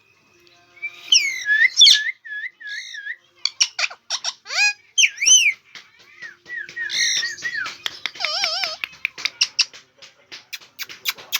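Indian ringneck parrot whistling and chattering: wavering, warbling whistled notes that rise and fall, mixed with rapid sharp clicks.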